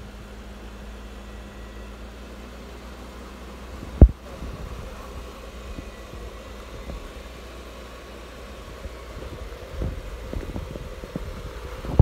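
Jeep Wrangler Rubicon engine running low and steady as the Jeep crawls over slickrock. A sharp thump about four seconds in, with a few lighter knocks near the end.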